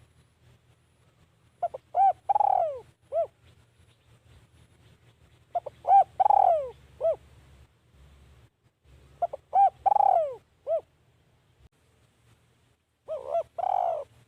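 Spotted dove cooing, a decoy bird calling to lure wild doves. It gives four calls about every four seconds. Each call is a few short coos around one longer coo that falls in pitch, and the last call is cut off at the end.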